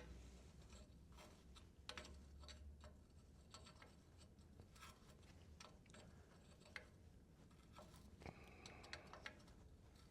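Near silence, broken by faint, irregular clicks and light metal taps of hand tools working a bolt and nut, with a brief faint scrape about eight seconds in.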